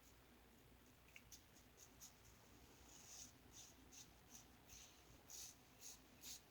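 Faint, quick scraping strokes of an Enders Speed Shaver injector-blade razor cutting lathered stubble. They start about three seconds in and come a little faster toward the end.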